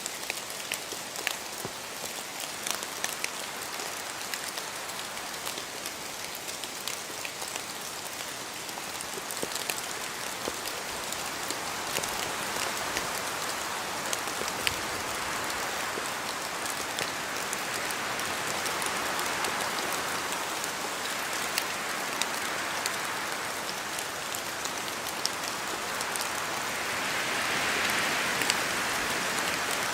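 Steady rain in a forest, with many separate drops falling from the trees and hitting leaves. Wind through the trees swells in slow gusts over the second half, loudest near the end.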